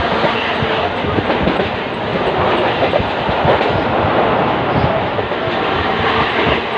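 Indian Railways train running at speed: a loud, steady rumble of wheels on rail, with irregular knocks and clatter throughout.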